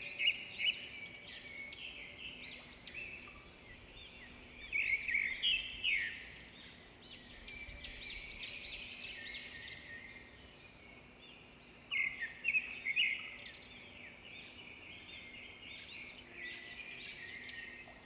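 Several small birds chirping and singing at once in a dense, busy chorus of quick sweeping notes, with louder clusters of calls near the start, about five seconds in and about twelve seconds in.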